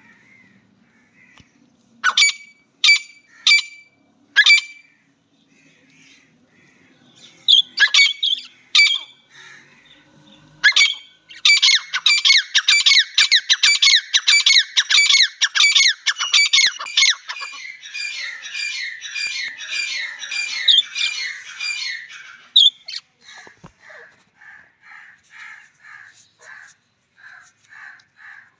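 Grey francolin (teetar) calling: loud, harsh, high notes in short groups of three or four, then a long, rapid run of calls. Near the end, softer chirps repeat about twice a second.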